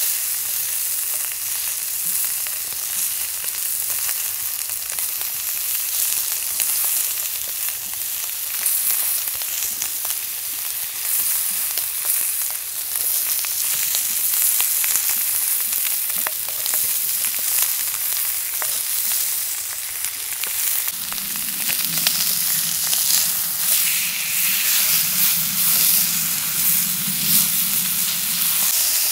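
Food frying in a hot pan: a steady sizzle with small spattering crackles. A low hum joins about three-quarters of the way through and stops shortly before the end.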